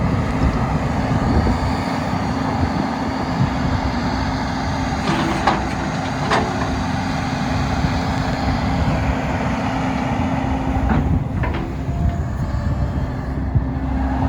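JCB JS220LC track excavator's diesel engine running steadily with a constant low hum, with a few short knocks around the middle and again later.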